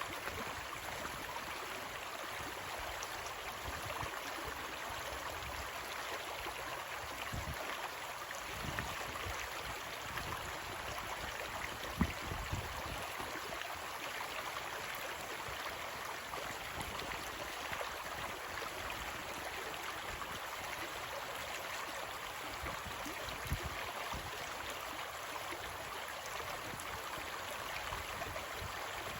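River water flowing in a steady rush, with a few brief low thumps, the loudest about twelve seconds in.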